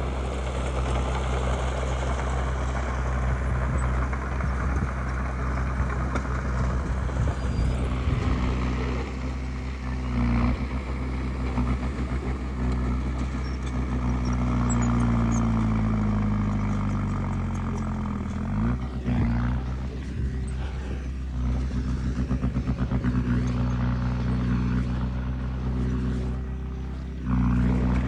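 Heavy diesel earthmoving machinery running steadily in mud, its engine note falling in pitch for a few seconds about halfway through.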